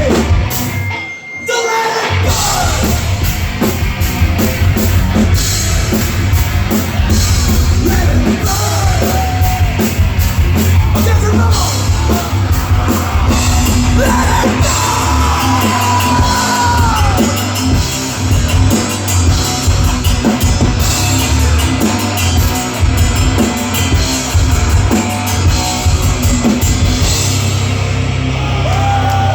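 Live heavy rock band playing loud, with drum kit and singing over the band, and a brief drop in the sound about a second in.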